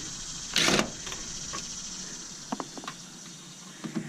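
Work noises while dismantling a stainless steamer: a short loud clatter about half a second in, then a few light clicks and taps.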